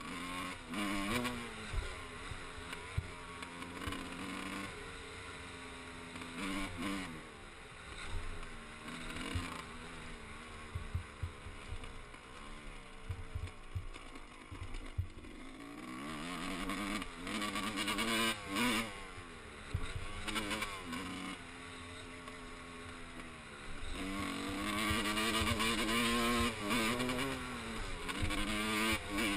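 Dirt bike engine being ridden on a motocross track, its revs climbing and dropping again and again through the gears and over the jumps, loudest in the later part.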